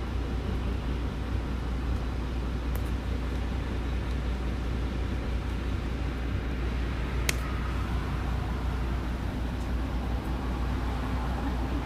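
Route bus heard from inside the cabin: a steady low engine drone with road noise. A single sharp click comes about seven seconds in.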